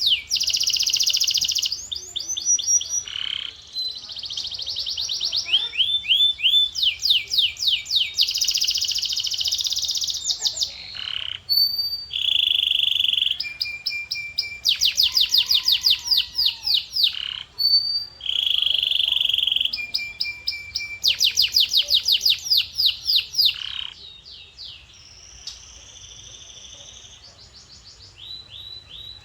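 Male canary singing a long song of rapid trills, each phrase a fast run of repeated notes before switching to a new trill, with some long held whistled tones. The song gets quieter for the last few seconds.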